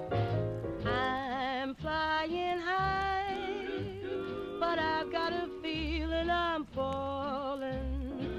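A 1940s-style slow jazz recording playing: a lead melody in long held notes with wide vibrato over a band accompaniment and bass line.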